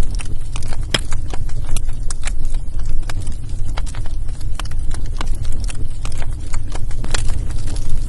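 Wood fire burning in a fireplace: irregular crackles and pops of burning logs over a steady low rumble, with one sharper pop about a second in.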